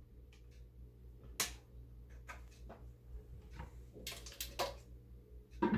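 A few light clicks and knocks from kitchen items being handled, over a faint steady low hum.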